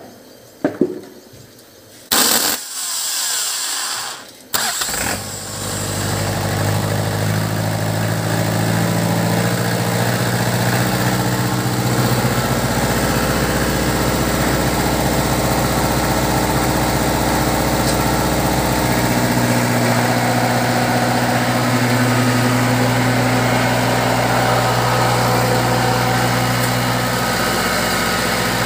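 The fish feed pellet machine's D4 drive engine being started. A few knocks come first, then a loud burst of cranking from about two seconds in. The engine catches about five seconds in and settles into a steady run.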